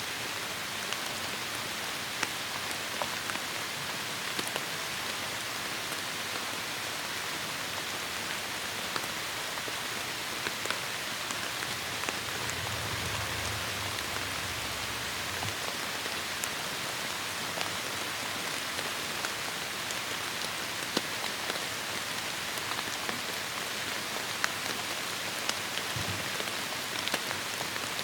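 Heavy rain falling steadily on foliage, a dense even hiss with many individual drops ticking through it. A short low rumble comes in about halfway through.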